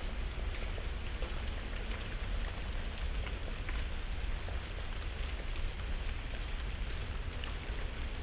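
Dry autumn leaves falling through the canopy and landing on the leaf litter: a steady scatter of small ticks and patters, like light rain. A low, steady rumble runs underneath.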